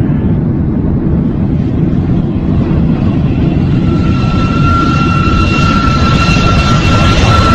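Jet aircraft engines: a heavy, steady rumble growing gradually louder, with a high-pitched turbine whine coming in about four seconds in.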